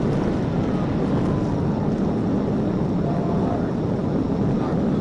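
Police patrol car driving at speed: a steady, dense rush of engine, tyre and wind noise, with a faint tone rising and falling in the first two seconds.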